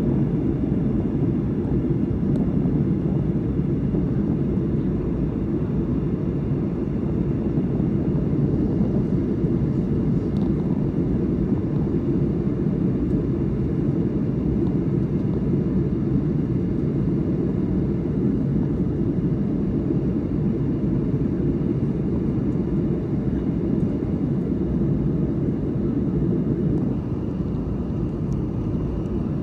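Steady low rumble of in-flight cabin noise in a Boeing 737-900: airflow over the fuselage and its turbofan engines, even throughout and a little quieter near the end.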